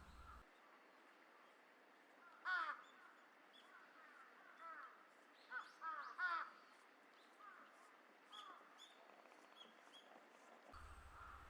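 A crow cawing about five times, in a cluster through the middle, with faint high chirps of small birds.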